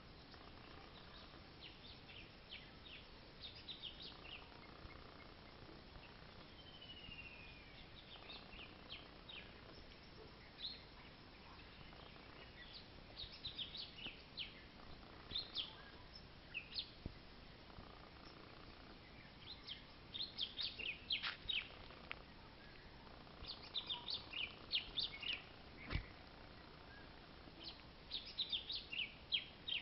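Small birds chirping in quick runs of short, high calls, with one falling whistle about seven seconds in, over a faint outdoor hiss. A single sharp tap sounds near the end.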